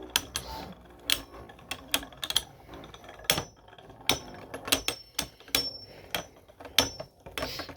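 Two 3D-printed beyblade spinning tops battling in a stadium, with irregular sharp clacks as they strike each other and the stadium walls, sometimes several in quick succession.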